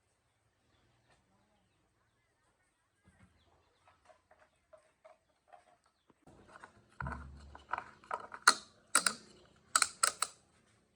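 Mechanical clicks and knocks of something being handled. Faint separate clicks begin about three seconds in, and louder sharp knocks and clatter follow in the last few seconds.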